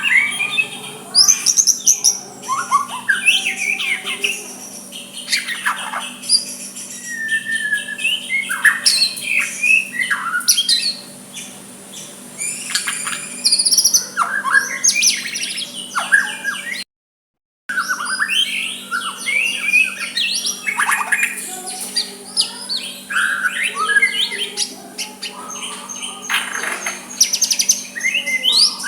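White-rumped shama singing a rapid, varied string of whistles, chirps and harsh notes, with a brief cut to silence about 17 seconds in. A faint steady low hum sits underneath.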